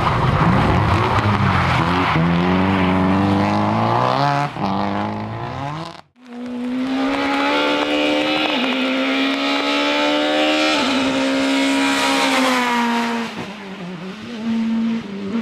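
Rally car engines at full throttle. A car accelerates hard with its engine note rising for the first few seconds; after an abrupt cut, another runs at a steady high pitch with brief dips at gear changes, then fades near the end.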